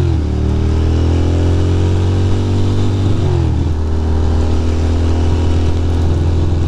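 Ducati Monster's L-twin engine accelerating, its note rising for about three seconds, then dropping with an upshift and holding steady. A steady rushing noise runs underneath.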